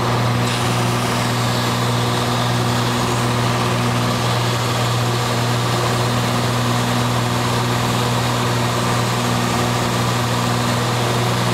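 Cessna 182's six-cylinder piston engine and propeller droning steadily in flight: one low, even tone with its overtones, no change in pitch.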